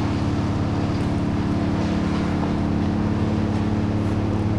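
An engine running steadily at idle, with an even, unchanging low drone.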